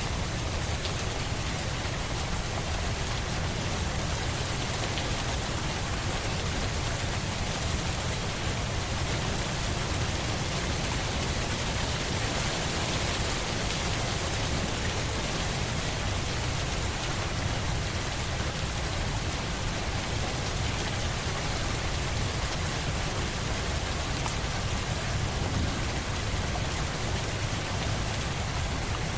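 Steady rain falling, an even hiss with a deep low rumble underneath and no distinct drops or breaks.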